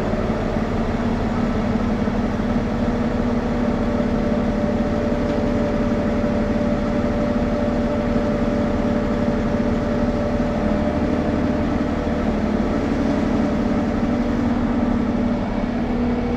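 An engine running steadily at constant speed, a continuous even drone with a low hum.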